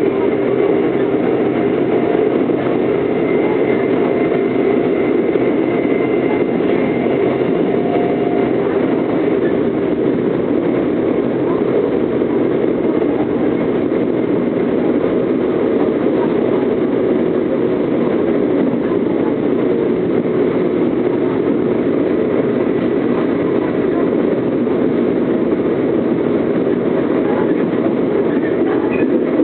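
Seoul Metro GTO-VVVF electric train running between stations: a steady rumble of wheels and traction motors with faint steady tones, one of which fades out about eight seconds in.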